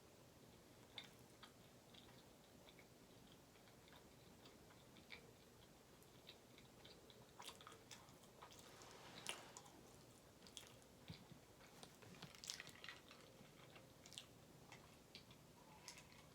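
Faint, close-up chewing of food: soft wet mouth clicks and smacks that come thicker in the middle.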